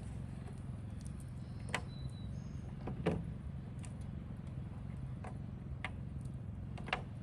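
Campfire cooking: a handful of sharp clicks and knocks, the loudest about three seconds in, over a steady low rumble.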